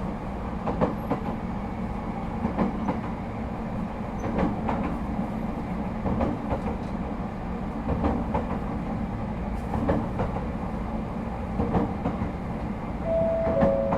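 ET127-series electric train running steadily, heard from inside the car: a continuous rumble of wheels on rail with sharp clicks every second or two as the wheels cross rail joints. Near the end a two-note chime sounds, the second note lower.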